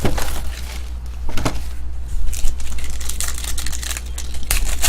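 Trading card packaging being handled and torn open: irregular crinkling and sharp clicks from wrapper and cardboard, over a steady low hum.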